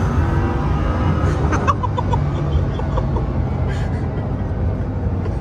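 Bugatti Chiron Pure Sport's quad-turbo W16 engine heard from inside the cabin, a steady loud low drone at high speed. A few short high chirps come a second or so in.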